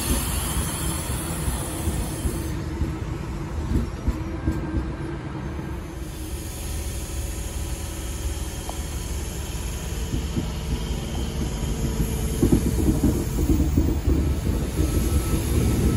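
NSW TrainLink V set double-deck electric intercity train rolling past along the platform, its wheels and carriages rumbling. A high hiss in the first couple of seconds. It grows louder, with quick clicks of wheels over rail joints, in the last few seconds.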